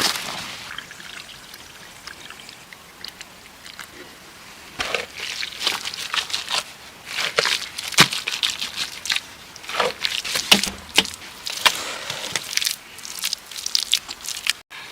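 Irregular wet sloshing and splashing, sparse at first and then a busy run of sharp splashes from about five seconds in.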